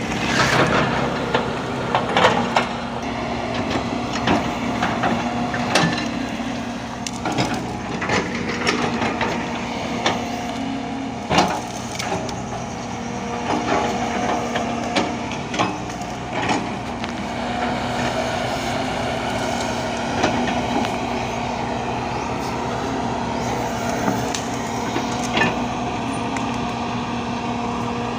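A heavy machine's engine running steadily, with irregular sharp knocks and cracks over it throughout.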